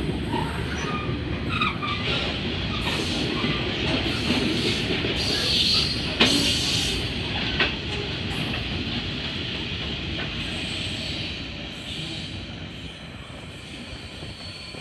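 Coal train's hopper wagons rolling past: a steady rumble of wheels on rail with a few sharp clacks over rail joints, fading after about ten seconds as the last wagons pull away.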